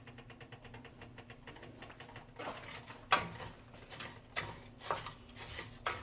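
Rice frying in a little oil in a pot, crackling with fast fine ticks, then a spoon stirring and scraping it around the pot from about two and a half seconds in, with a sharp knock of the spoon on the pot about three seconds in.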